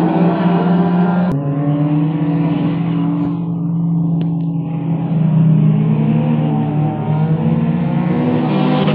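Several car engines running hard on an autocross course, their pitch rising and falling as the cars accelerate and lift through the cones. About a second in there is a click and the engine note changes abruptly.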